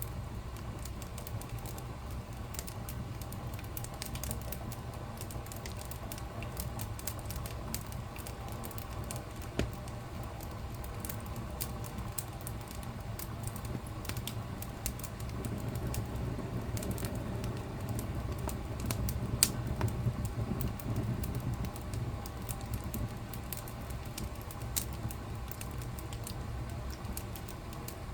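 Wood fire crackling in a fireplace: a steady low rumble of flames with frequent small, sharp pops and crackles. It swells a little around the middle, with one louder pop.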